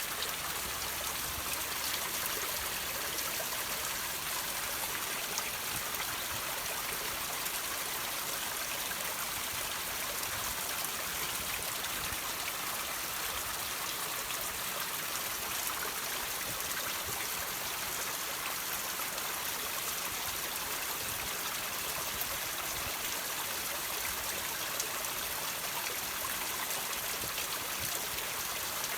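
Water trickling and dripping off rocks: a steady hiss of running water with many small drip ticks through it.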